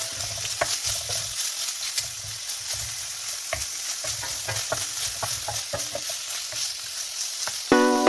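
Shrimp and squid sizzling in hot oil in a frying pan while being stirred, with a utensil clicking and scraping against the pan many times. Plucked-string music comes in just before the end.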